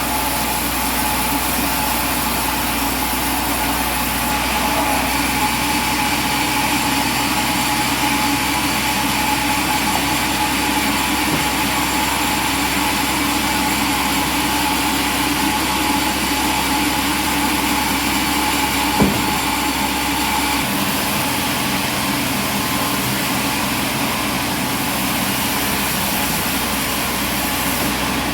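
An engine running steadily, with one sharp knock about 19 seconds in; the deepest rumble drops away shortly after.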